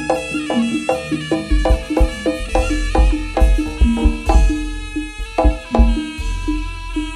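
Jaranan music, a Javanese gamelan-style ensemble of struck metal keys and drums, played loud through a sound system with heavy, booming bass. Its pitched strokes repeat in a quick, even beat.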